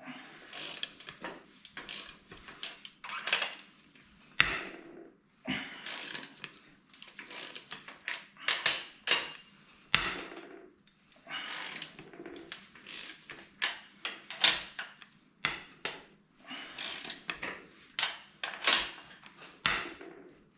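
Hand tools working on engine bolts: irregular metallic clicks and knocks with short bursts of rapid clicking and scraping, as bolts are undone during an engine strip-down.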